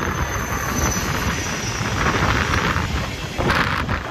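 WLE 36 diesel locomotive passing close and drawing away, then a train of open freight wagons rolling by with a steady rumble of steel wheels on the rails. A faint high whine falls in pitch in the first second and a half, and the noise grows louder briefly about three and a half seconds in.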